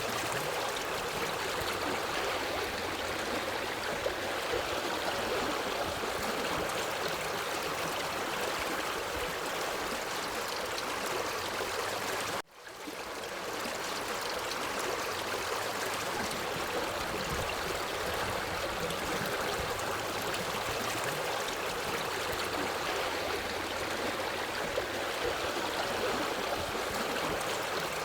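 Forest stream flowing steadily over rocks, a continuous rushing and gurgling of water. About twelve seconds in the sound drops out for an instant and fades back in, a seam in the looped recording.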